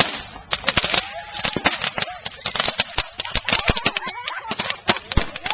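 A dense, irregular run of sharp crackling pops throughout, with faint voices underneath.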